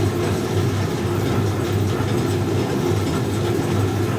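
1965 English Electric Liberator washing machine's drain pump running steadily as it pumps out the wash water, with a constant low hum.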